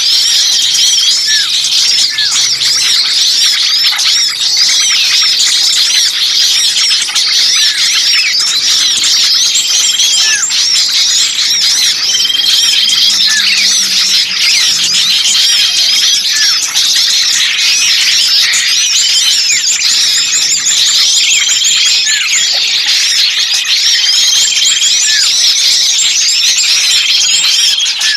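A dense, loud chorus of many small birds chattering and squealing at once: a layered bird-luring recording of agitated small-bird calls. A short note repeats about every two seconds through the constant chirping.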